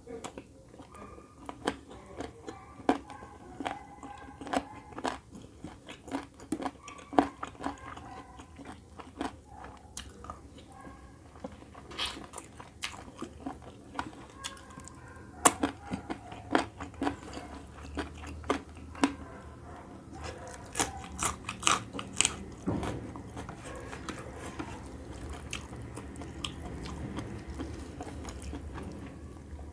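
Close-up mouth sounds of eating chicken curry and rice by hand: chewing and biting in a run of sharp clicks and wet smacks, thickest about halfway through.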